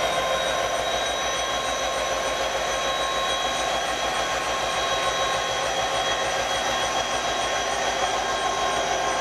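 Norfolk Southern maintenance-of-way train rolling slowly past behind its EMD SD60 locomotive, the flatcars of track equipment going by. A steady rushing noise with several high, steady whining tones over it.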